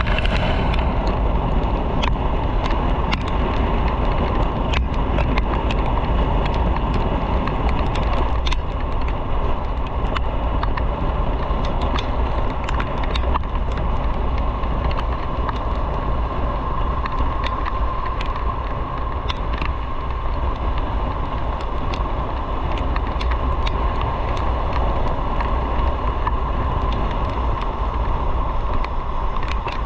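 Motorcycle riding along a road: steady wind rush and rumble on the microphone over the engine and tyre noise, with scattered small clicks and a faint steady whine in the second half.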